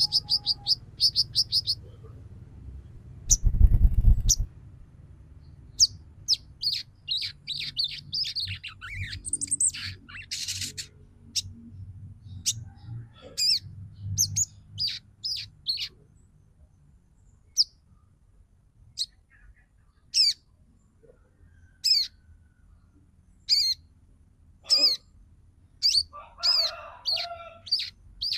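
Female sogon bird calling: a quick chattering run of chirps at first, then scattered sharp chirps and short falling notes, with a lower buzzy call near the end. There is a dull low thud about four seconds in.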